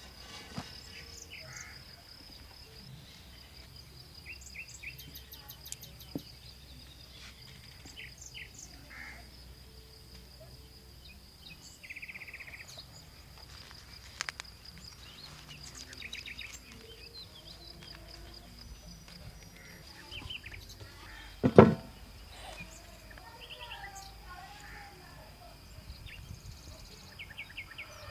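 Rural outdoor ambience: a steady high-pitched insect drone with scattered bird chirps, and one sharp knock about three quarters of the way in.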